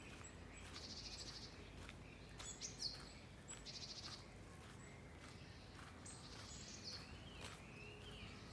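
Songbirds singing faintly: short, high, rapid trills repeated three times, with a few gliding chirps between them. Light footsteps crunch on gravel under the song.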